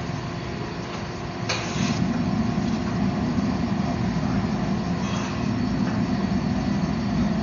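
Forge running with a steady roar, with a click about a second and a half in and the roar growing louder from about two seconds in, as the billet is checked for forging heat.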